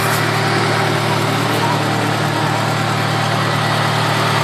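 Car engine idling steadily, a low, even drone with no change in speed.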